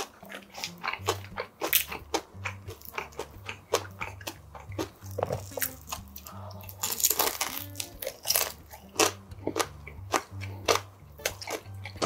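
Close-up chewing and crunching of crispy pan-fried dumplings: a steady run of sharp crisp bites and wet mouth clicks.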